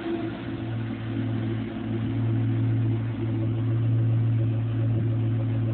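1997 Ford Mustang SVT Cobra's 4.6-litre DOHC V8 idling steadily through a Bassani catted X-pipe and Flowmaster mufflers. The low, even exhaust note grows a little louder about two seconds in.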